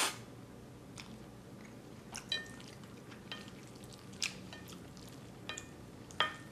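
A person chewing a mouthful of instant black bean noodles, with short wet mouth clicks and smacks about once a second; the tail of a slurp cuts off right at the start.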